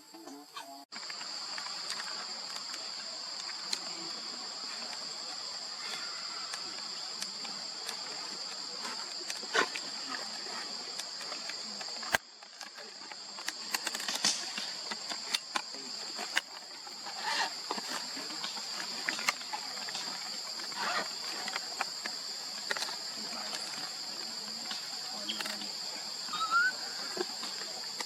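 Insects droning in a steady, high, even buzz, with scattered light clicks and rustles. The buzz breaks off about twelve seconds in and returns a couple of seconds later.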